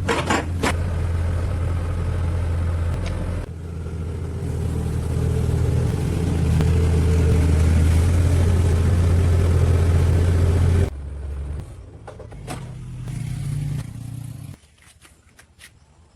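An engine running steadily, with a few sharp knocks at the start; it drops lower about eleven seconds in and stops about three seconds later.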